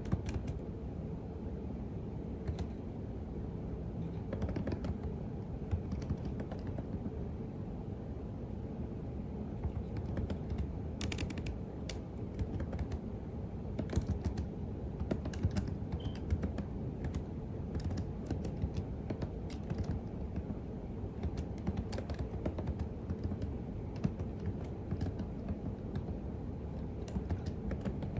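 Steady typing on a computer keyboard: quick, irregular key clicks with an occasional louder keystroke, over a low, steady background noise.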